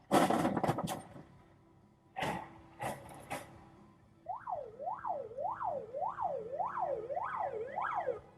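A loud bang at the very start, then two more bangs about two and three seconds in. From about four seconds in, an emergency-vehicle siren yelps, its pitch rising and falling about every two-thirds of a second.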